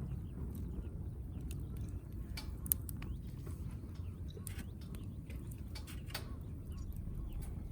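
Wood fire crackling in an open fire grill: irregular sharp pops and ticks over a low steady rumble, with the loudest pop about two and a half seconds in.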